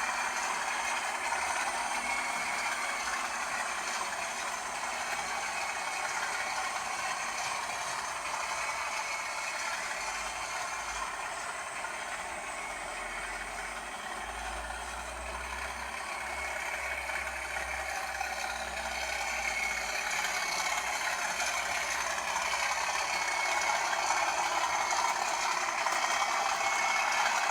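British Rail Class 37 diesel locomotive's English Electric engine running steadily, with some rattling, growing louder over the last several seconds.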